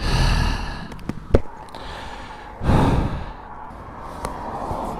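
A rider's heavy sigh, a noisy exhale about two and a half seconds in, with a single sharp click a little over a second in.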